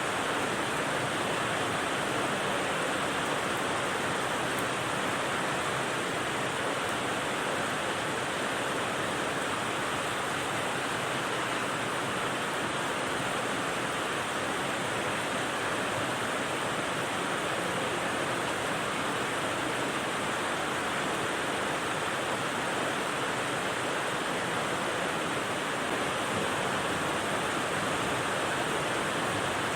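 Steady rain, an even unbroken hiss without pattern or change.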